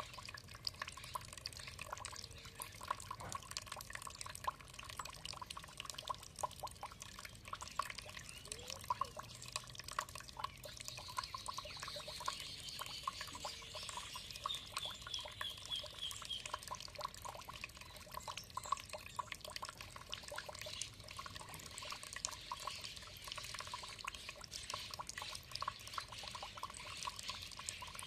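Water trickling and dripping in a steady patter of drops. About halfway through, a bird sings a short run of quick repeated notes.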